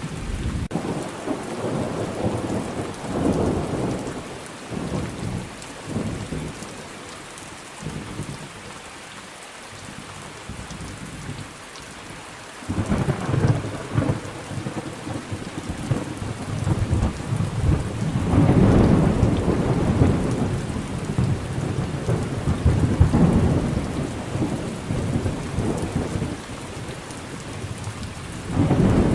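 Thunderstorm: steady rain with rolling thunder rumbling in swells, easing for a few seconds before a fresh peal breaks in about halfway through and builds to its loudest roll a few seconds later.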